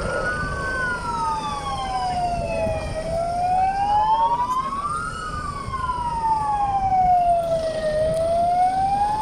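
Emergency vehicle siren wailing, its pitch rising and falling slowly, one full sweep about every five seconds. A second wail overlaps slightly out of step near the start.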